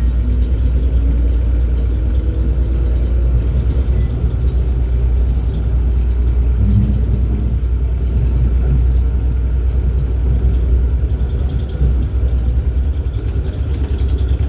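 Melbourne E-class tram running, with a heavy, steady low rumble from vibration that, by the uploader's account, it shouldn't make. A motor whine rises in pitch over the first few seconds, over a faint steady high whine.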